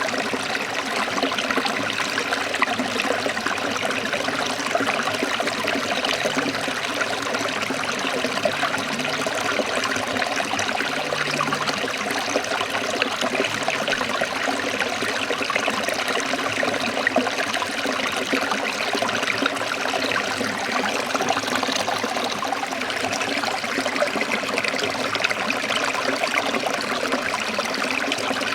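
Running water of a forest stream, trickling and splashing steadily over rocks.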